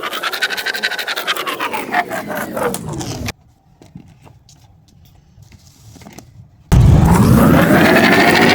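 Pen scratching on paper as a plastic Spirograph wheel is rolled around its ring, a scraping sound with rapid ticking whose pitch rises and falls. It cuts off suddenly about three seconds in, stays quiet for about three seconds, then starts again louder near the end.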